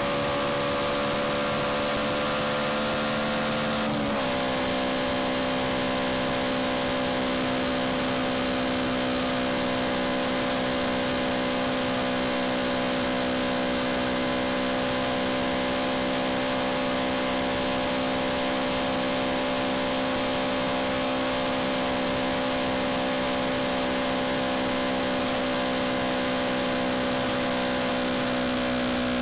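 Yamaha MT-125's single-cylinder four-stroke engine running steadily while riding at road speed, under a steady rush of wind and road noise. The engine note shifts once about four seconds in.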